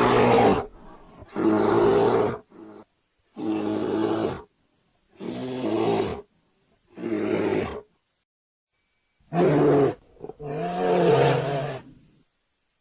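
A bear roaring repeatedly: about seven deep roars with short silences between them, the last one the longest.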